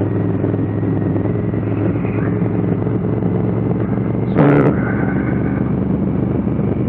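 2019 Honda Africa Twin CRF1000L's parallel-twin engine running at a steady pitch while riding, heard from the rider's position.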